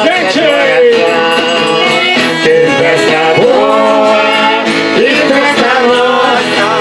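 Folk music from a Folia de Reis group: an eight-bass button accordion (oito baixos) playing sustained chords and melody while voices sing.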